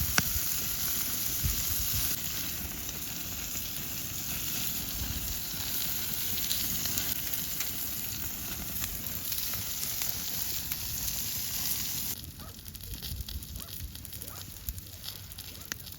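Meat sizzling on a slotted iron griddle over a wood campfire, a steady hiss with the fat dripping through the slits. About twelve seconds in it drops suddenly to a quieter fire with scattered crackles and pops.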